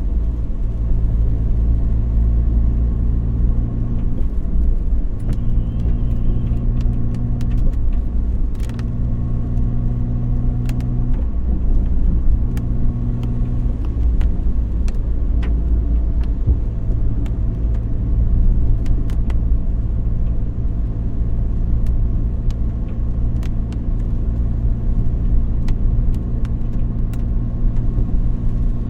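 Car driving on the road: steady low engine and road rumble, the engine note dipping briefly several times in the first half as it eases off and picks up again, with scattered light ticks throughout.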